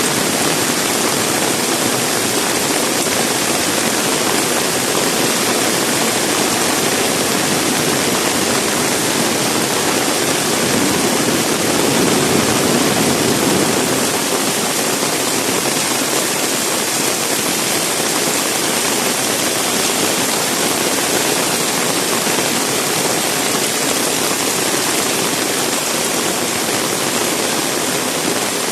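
Heavy rain pouring down with strong wind, a loud steady hiss that swells briefly around the middle.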